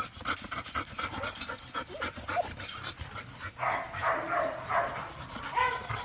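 A dog panting, with scattered light clicks and scuffles.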